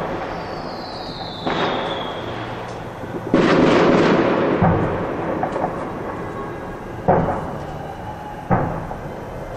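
Fireworks going off in a steady rumble of booms and crackle, with a whistling tone that falls in pitch about a second and a half in. The loudest burst comes at about three and a half seconds and rumbles on for about a second, and two sharp bangs follow near the end.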